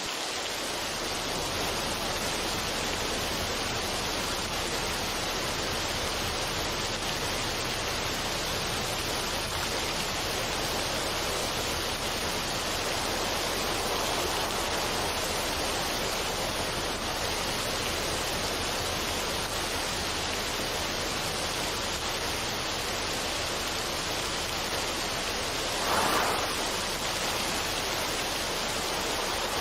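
A steady, even rushing noise with no music, swelling briefly louder about 26 seconds in.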